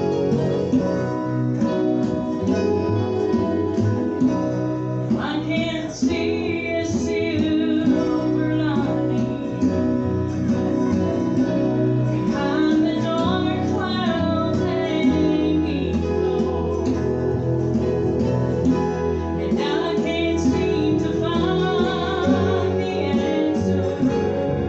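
Live gospel music: acoustic guitar playing with singing voices joining in, a woman's voice among them.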